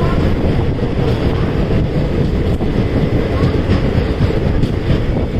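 Indian Railways passenger train running on the track: a loud, steady rumble of wheels and coaches.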